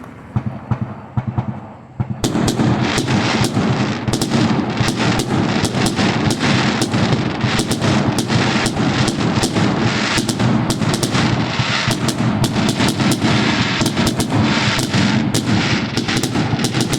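Fireworks going off close by. A few scattered pops come first, then about two seconds in a dense, rapid barrage of bangs and crackles begins and keeps up without a break.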